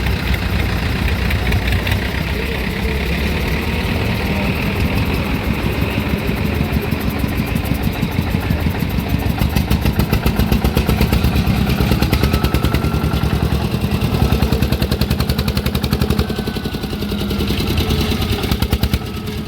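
Vintage tractor engine running with a rapid, even beat of firing pulses, growing louder toward the middle and easing off near the end as the tractor passes.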